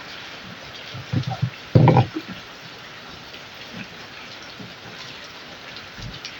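Steady rain pattering on a roof, an even hiss with scattered drip ticks. About a second in, a few close knocks, the loudest just before two seconds.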